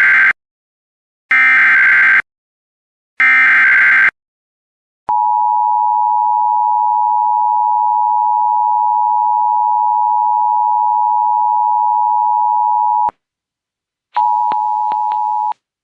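Emergency Alert System activation: three one-second bursts of the SAME digital header warble, then the EAS two-tone attention signal held steady for about eight seconds. After a short gap, a briefer stretch of the same two-tone signal is broken by a few clicks near the end.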